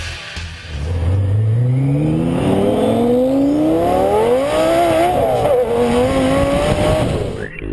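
Twin-turbo Lamborghini Gallardo V10 accelerating hard: the engine note climbs steadily for about four seconds, then holds high and wavers before cutting off abruptly near the end.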